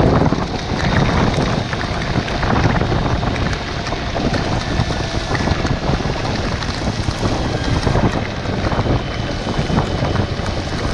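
Steady wind buffeting the microphone on a moving Kawasaki Versys-X motorcycle, over a continuous rush of riding noise from the engine and tyres.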